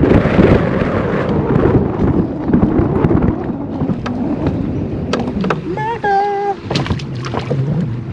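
Heavy wind buffeting the microphone on an open boat, loudest at the start, with scattered sharp knocks. About six seconds in there is a short high-pitched cry lasting under a second.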